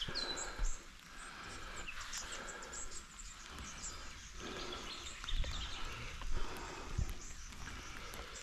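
Birds chirping in the background with many short, high chirps, and a few dull low thumps.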